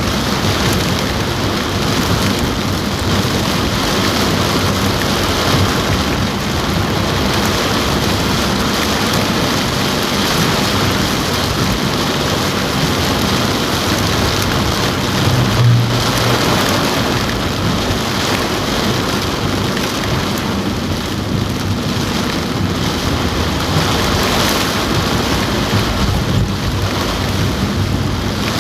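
Heavy rain drumming steadily on a car roof, heard from inside the car, with a brief low rumble about halfway through.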